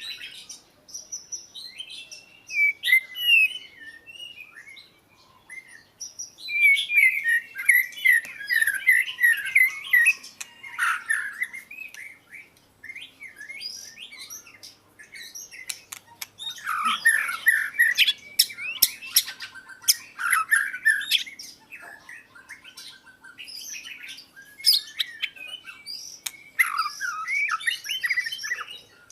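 Oriental magpie-robin singing: varied, quickly changing whistled phrases in several bouts with short pauses between them.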